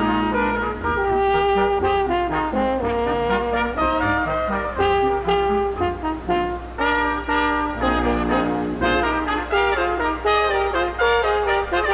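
A brass ensemble of trumpets and trombones playing a Christmas piece, with several parts sounding held notes together in a moving rhythm.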